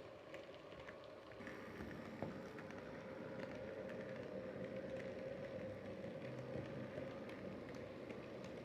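Model railway locomotive running on its track: a steady electric-motor hum with scattered clicks from the wheels on the rails, getting louder about a second and a half in as the train draws nearer.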